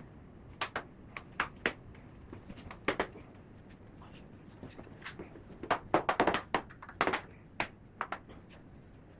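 Irregular light knocks and clicks of soundproofing floor mats being handled and laid, scattered at first and bunching into a quick cluster about six seconds in.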